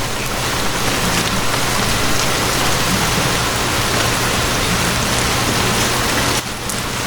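Steady, heavy rain falling on surfaces, a dense even hiss, with a low steady hum beneath it; the rain dips briefly near the end.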